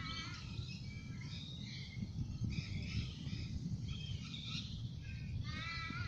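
Birds calling, a series of short chirping calls every second or so, the fullest ones at the start and near the end, over a steady low rumble of outdoor noise.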